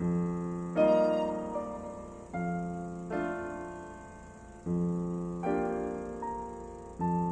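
Background piano music: slow sustained chords, each struck and left to ring and fade.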